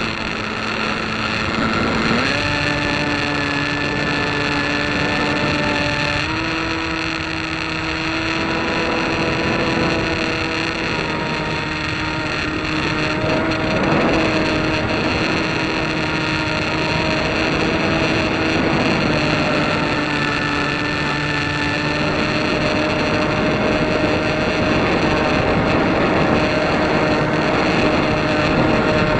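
An engine running steadily, its pitch stepping up twice early on and dropping slightly later, with gusty wind noise on the microphone.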